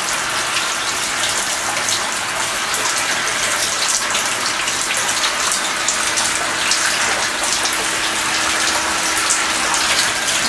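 Water spraying and spattering steadily, many droplets hitting, with a faint steady hum underneath.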